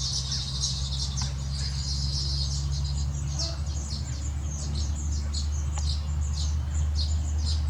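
A flock of small birds chirping, with many short high calls overlapping throughout, over a steady low hum.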